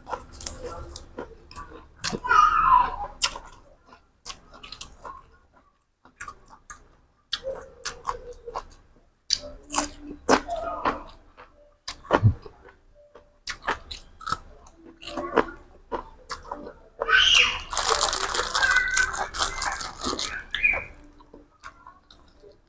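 Close-up chewing and crunching of food with crisp raw vegetables: scattered sharp crunches and mouth clicks. A long, loud spell of crunching comes near the end.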